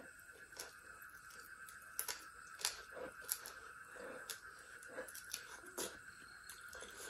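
Close-up eating sounds of a person chewing rice and duck curry eaten by hand: soft wet chewing with a scattering of short sharp mouth clicks and smacks. Under it runs a faint steady high-pitched hum.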